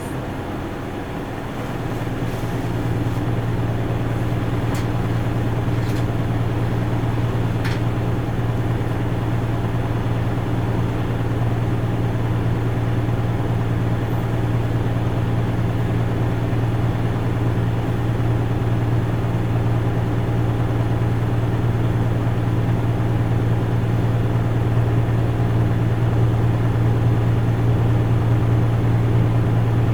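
Isuzu Erga Mio city bus's four-cylinder turbo-diesel engine running under steady load, heard from inside the passenger cabin as a constant low drone. It grows louder about two seconds in and then holds steady.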